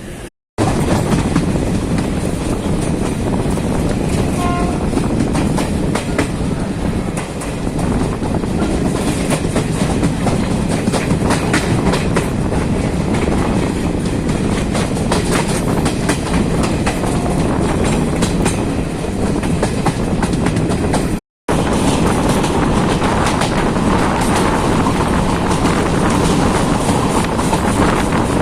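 A moving passenger train running steadily, its wheels clicking over the rail joints above a continuous rumble. The sound drops out completely twice for a split second, just after the start and about three quarters of the way through.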